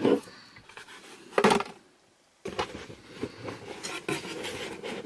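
Items being handled and knocked against a hard surface: two sharp knocks in the first second and a half, then, after a short break, continuous handling and rustling of the items.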